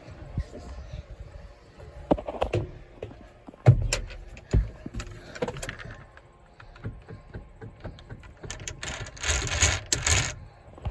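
Scattered knocks, clicks and rattles, with one loud knock about four seconds in and a rushing noise near the end.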